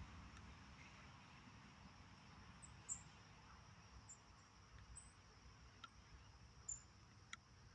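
Near silence: quiet outdoor ambience with about half a dozen faint, short high-pitched chirps spread through it and two soft ticks near the end.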